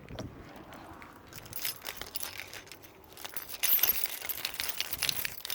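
Car keys jangling with small metallic clicks, getting busier and louder a little past halfway.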